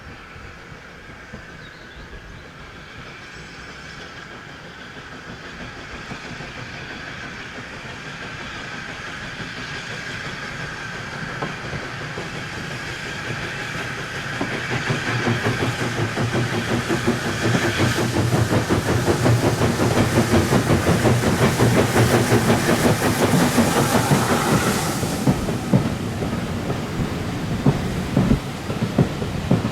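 Heritage steam train approaching and passing close by with wheels clattering over the rail joints. It grows steadily louder for about fifteen seconds and is loudest for about ten seconds. Then its high hiss cuts away and the rumble carries on somewhat quieter.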